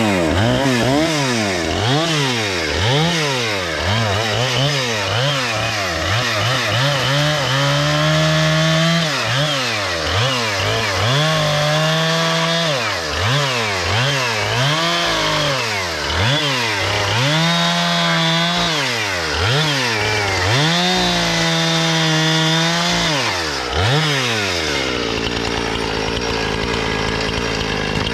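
Husqvarna 460 Rancher two-stroke chainsaw cutting slab wood, revved about once a second at first, then held at full throttle for stretches of a second or two with the pitch dropping between them. Near the end it drops back to a steady idle.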